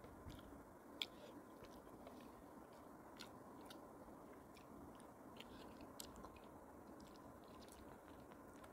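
Faint chewing and mouth sounds of a person eating soft fish with her fingers, with scattered small wet clicks and smacks; a sharper click about a second in and another about six seconds in.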